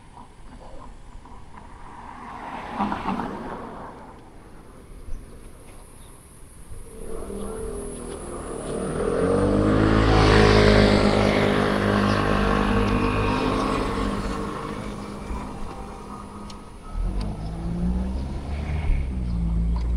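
A motor vehicle passes close by, its engine pitch dropping as it goes past, loudest about halfway through and then fading. Another vehicle's engine comes up near the end.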